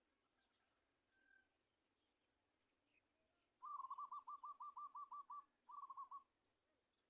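A bird calling: a fast run of about ten short repeated notes, then after a brief pause a shorter run of about five, with faint high chirps around them.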